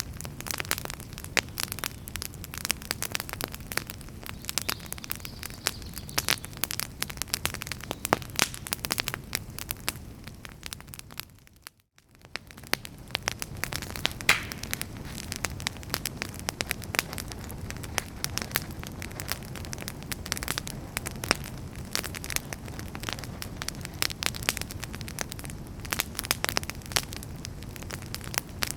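Fireplace fire crackling, with many sharp pops over a low steady rush of flame. About twelve seconds in the sound fades briefly to near silence and comes back up.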